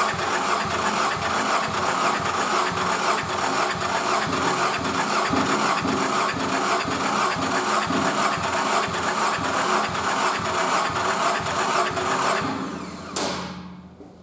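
Nissan QR25DE 2.5-litre four-cylinder engine on a test stand, turning over with an even rhythmic beat. It dies away about twelve seconds in and ends with a sharp click.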